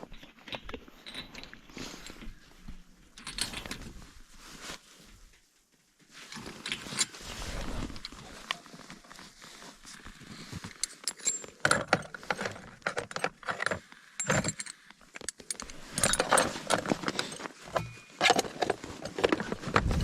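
Irregular clicks, rattles and rustling of small hard objects being handled, sparse at first and busier in the second half, with no engine running.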